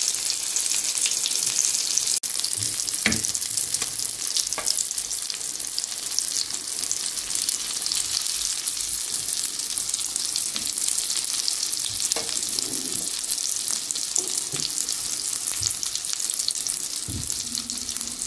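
Tomato rings filled with egg batter sizzling steadily in hot oil in a frying pan, with a few brief light knocks of a spatula against the pan as they are lifted out.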